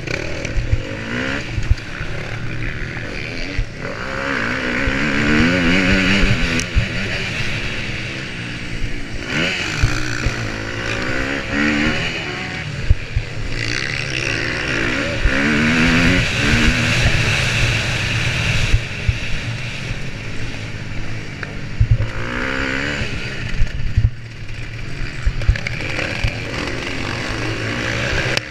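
Motocross motorcycle engine heard on board, revving up and dropping back again and again as the bike is ridden round the track. Wind rushes on the helmet or bike-mounted camera's microphone, and short knocks come from bumps.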